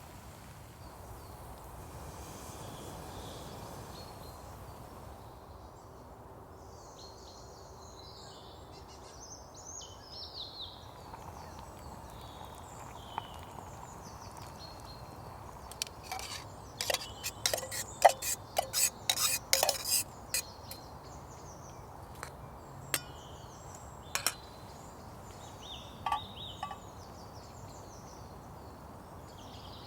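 Metal camp cookware clinking and knocking: a quick run of sharp clinks with a short ring, loudest in the middle, then a few single clinks. Birds chirp faintly in the background over a steady hiss.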